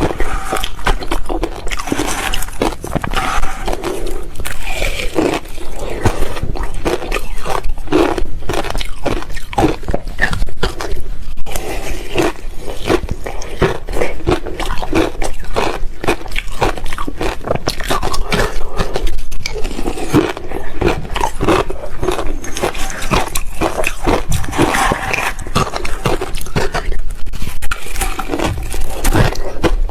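Ice being bitten and chewed close to the microphone: loud, continuous crunching and cracking.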